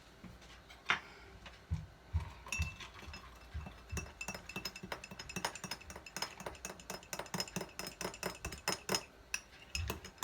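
A metal utensil clinking rapidly and repeatedly against a glass or ceramic dish as something is stirred or mixed by hand.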